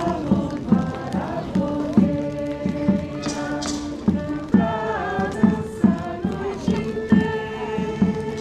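Festive song with group singing over a steady drumbeat, about two and a half beats a second.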